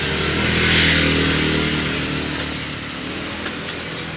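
A vehicle engine running steadily while driving along, with a swell of rushing noise about a second in.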